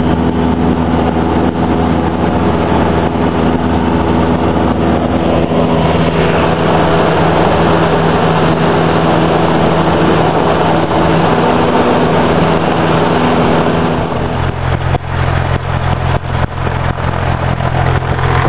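Cessna 172's piston engine and propeller drone steadily, heard from inside the cabin. About fourteen seconds in, the drone shifts to a lower pitch and gets slightly quieter and rougher.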